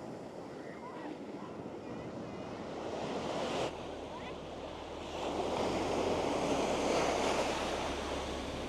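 Ocean waves washing onto the shore, with wind on the microphone. One surge builds and cuts off suddenly about three and a half seconds in, and a louder surge follows from about five seconds.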